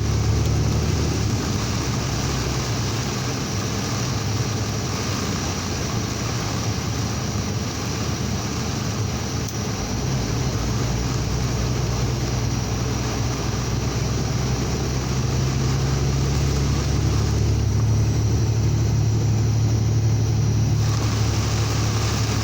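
Vehicle driving through heavy rain: a steady low engine drone under a constant hiss of rain and tyre spray off the wet road. The drone grows a little stronger about halfway through.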